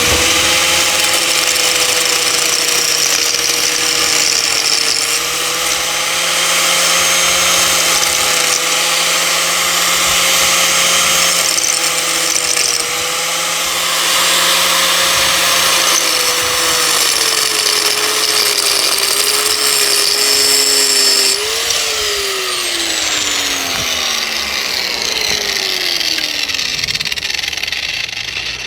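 Angle grinder cutting into an old suspension bush: the motor runs at a steady speed under a continuous grinding rasp. About 21 seconds in, the cutting stops and the motor winds down with a falling whine.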